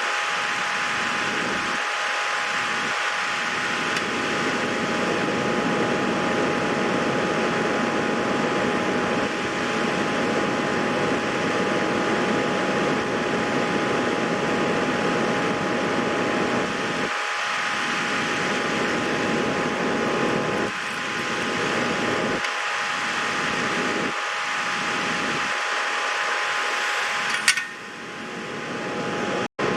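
Steady whirring of a small fan with a constant hum tone, briefly interrupted by a click and a dip near the end.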